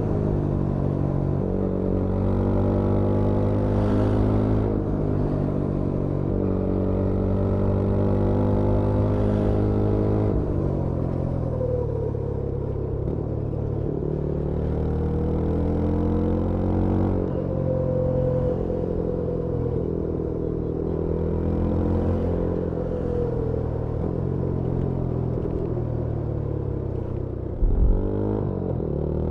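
Yezdi Scrambler 350's 334cc single-cylinder engine and exhaust under way, heard from the rider's seat: a steady pull for the first ten seconds, then several spells of easing off and rolling back on with the pitch dipping and climbing. A brief low thump comes just before the end, followed by a rising pull as the bike accelerates.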